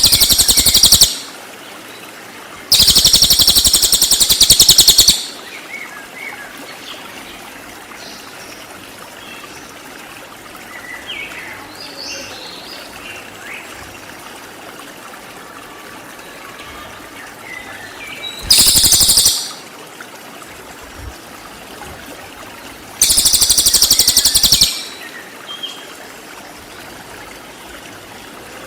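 Lesser forktail (cililin) giving loud, very high-pitched, rapid-fire trilling bursts, the 'tembakan' calls. There are four bursts of one to two and a half seconds each, with long gaps between them that hold faint small chirps over a soft steady hiss.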